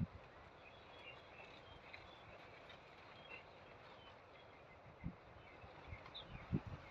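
Faint outdoor background: a steady hiss with scattered small high chirps and a few dull low thumps, the strongest near the end.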